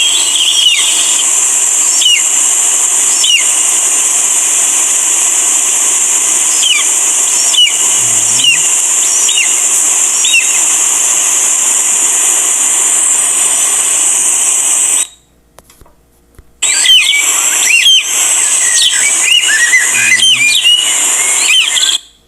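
Stock forest sound effects laid over each other: a steady high insect drone with many short, falling bird whistles and calls on top. It cuts out for about a second and a half past the middle, then starts again.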